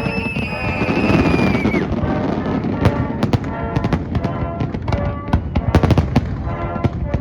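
Fireworks going off in rapid, irregular succession, many sharp bangs and pops, heard together with music.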